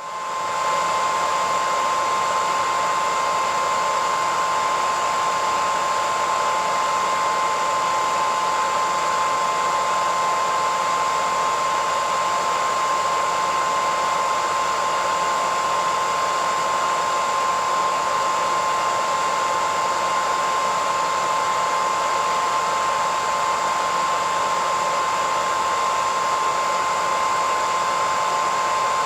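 Hairdryer running continuously: a steady rushing of air with a constant whine from the motor, rising to full level within the first second and then holding unchanged.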